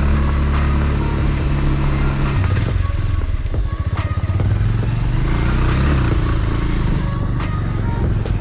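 Motorcycle engine running under way over a rough road, its note dropping and loosening about two and a half seconds in, with frequent short rattles and knocks throughout.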